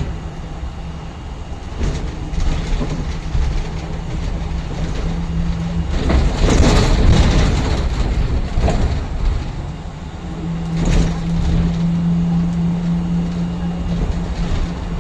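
City bus interior while driving: a steady low drivetrain hum over road rumble and rattles, with a louder rush of noise about six to eight seconds in.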